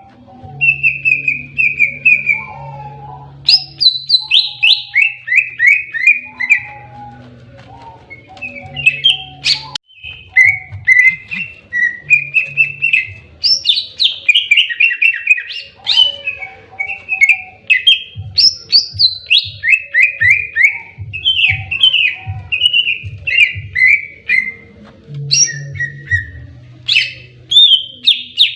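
Greater green leafbird (cucak ijo) singing in aggressive 'fighting' mode: loud, rapid phrases of whistled notes that each slide downward, run together with hardly a pause.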